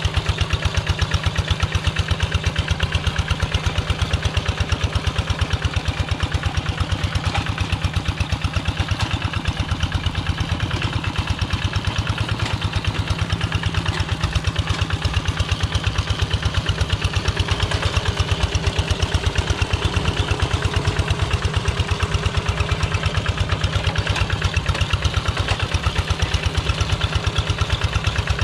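Single-cylinder diesel engine of a Kubota Quick G1000 two-wheel tractor running steadily, with an even, rapid thudding beat of firing strokes.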